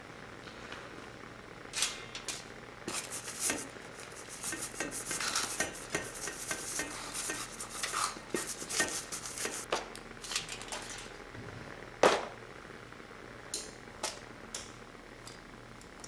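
Kitchen utensils and dishes clattering: a run of clinks and scrapes, then one loud knock about twelve seconds in and a few light ticks after it.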